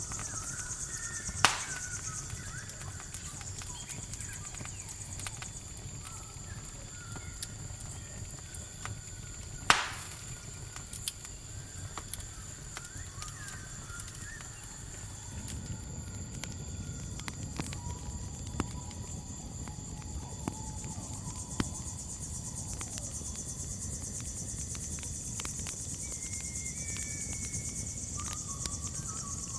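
Campfire crackling, with two loud sharp pops and scattered smaller snaps, over a steady high chirring of crickets.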